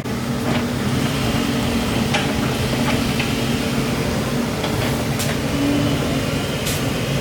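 Excavator's diesel engine running steadily, with a few sharp metallic knocks.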